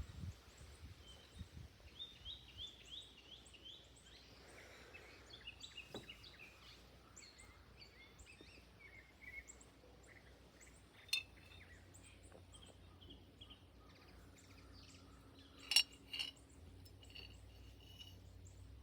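Wild birds singing and chirping outdoors: many short, high repeated notes, including a quick run of falling notes in the first few seconds. Two brief, sharper and louder sounds stand out, about 11 seconds and 16 seconds in.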